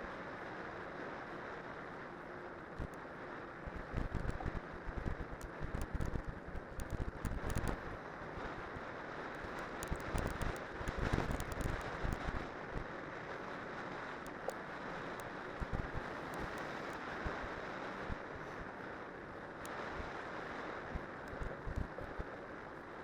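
Ride noise from a cyclocross bike on spiked tyres going downhill: steady wind rushing over the microphone, with irregular low thumps and rattles from bumps in the track.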